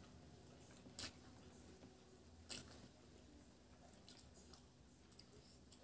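Faint chewing and mouth sounds of a person eating rice and fish by hand, with two short sharp clicks about one and two and a half seconds in.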